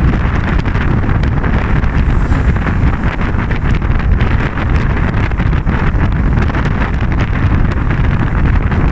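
Steady wind buffeting the microphone on a moving vehicle, over a constant low rumble of travel.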